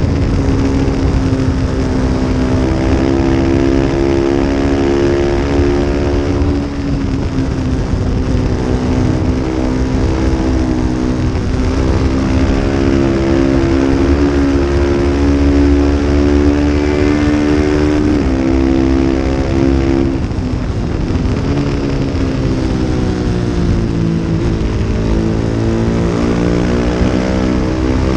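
Small-displacement race motorcycle engine run hard at high revs, its pitch falling sharply a couple of times as the rider shifts and brakes for corners, then climbing again under acceleration, over a steady rush of wind noise.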